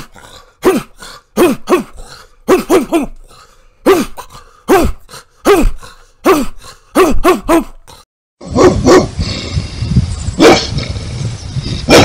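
A big dog barking repeatedly, more than a dozen deep barks that each drop in pitch, some in quick pairs and triplets. After a brief pause a second big dog barks a few times over a noisier background.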